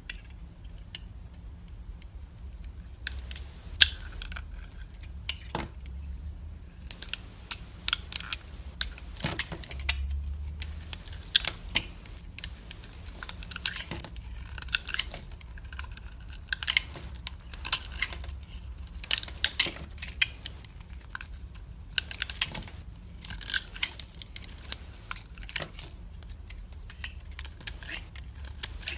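A blade cutting into dry soap, giving crisp crackling snaps in quick runs with short pauses between them.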